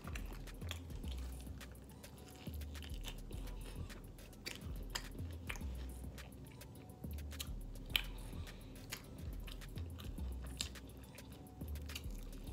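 Close-up chewing and biting of fried chicken wings, with many short crunches and wet mouth smacks. Faint background music with a bass line runs underneath.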